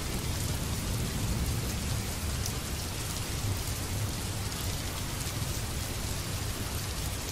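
Steady rain falling, a dense even hiss with scattered drop ticks, over a low continuous rumble.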